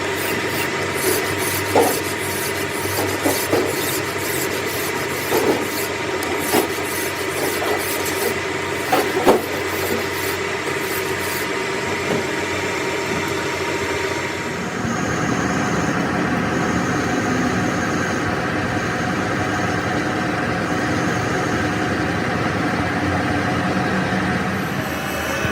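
Metal lathe running, with steady tones under scraping and occasional knocks from the work for about the first half. About halfway through the sound changes to a louder, steady machine noise.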